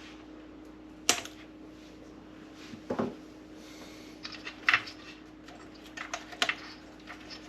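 Sharp clicks and light knocks from handling the coffee machine's plastic parts and tools during a repair, with four louder clicks spaced a second and a half to two seconds apart, over a faint steady hum.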